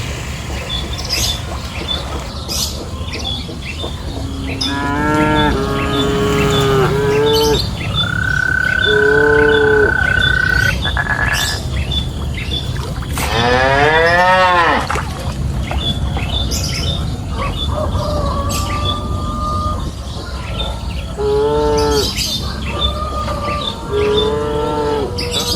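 Cattle mooing, several calls one after another, one of them rising and then falling about halfway through, over a steady background hiss. A high steady tone is held for a few seconds about eight seconds in.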